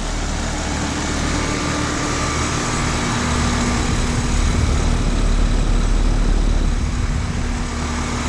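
Two Payne heat pump outdoor units, a 3-ton and a 3.5-ton, running together in cooling mode. There is a steady hum over a constant rushing noise and an uneven low rumble.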